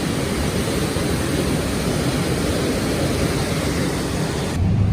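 Waterfall roaring: a steady, dense rush of falling water. Near the end it cuts off abruptly to a deeper, duller rumble.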